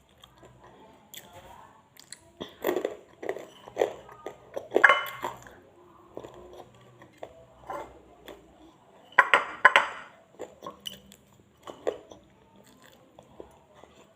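Close-miked eating sounds: crunchy fried chicken being bitten and chewed, with sharp clicks and clinks of dishes. There are louder bursts of crunching about 3, 5 and 9.5 seconds in.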